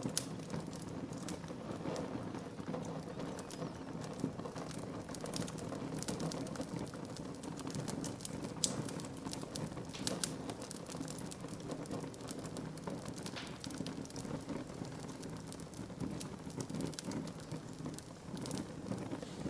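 Wood fire burning in a fireplace: a continuous rush of flame with dense, irregular crackling of burning wood and a few louder pops.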